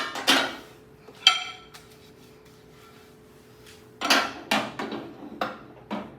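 Microwave's glass turntable tray and roller ring being set back in place: hard knocks and clinks of glass on the oven floor, one clink ringing out about a second in, then a quick run of knocks and clacks from about four seconds in, over a faint steady hum.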